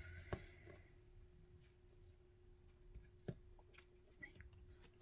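Near silence: room tone with a faint steady hum and a few faint taps, the sharpest about three seconds in.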